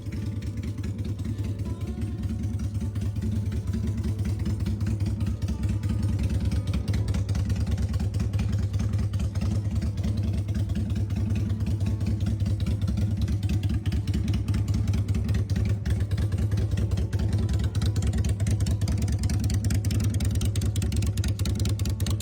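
Honda Shadow 600 VLX motorcycle's V-twin engine running steadily at low revs, a little louder after the first few seconds.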